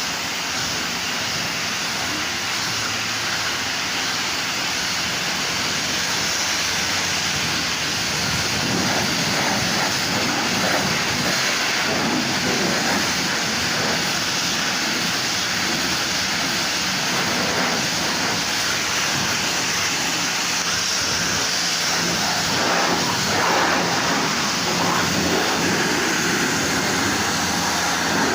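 Steady running noise of a car wash: water spray and machinery, continuous and unbroken.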